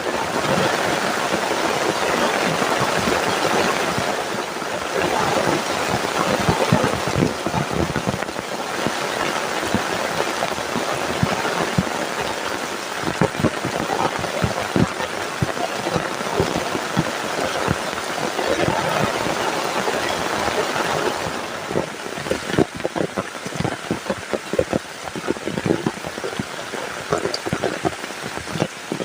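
Heavy rain falling steadily, with many close drops striking a surface as distinct sharp ticks. About three quarters of the way through, the steady hiss eases and the separate drop hits stand out more.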